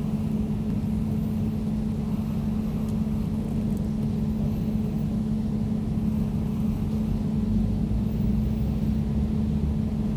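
Air conditioner running steadily: an even low hum with one strong steady tone over a deeper rumble and a faint hiss.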